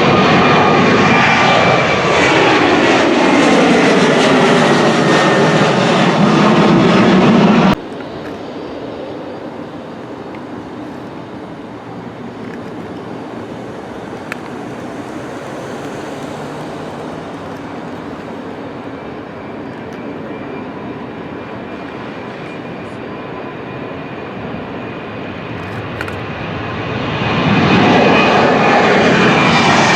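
A jet aircraft passing close by, its engine whine sliding down in pitch as it goes past, until the sound cuts off abruptly about eight seconds in. Quieter, steady aircraft engine noise follows. Near the end another jet approaches and passes loudly, its tones again falling in pitch.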